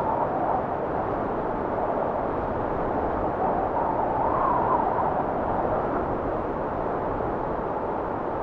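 Blizzard wind blowing steadily, swelling in a gust with a rising and falling whistle about four seconds in.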